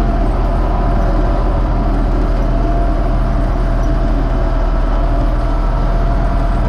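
U650 tractor's four-cylinder diesel engine running steadily at constant speed.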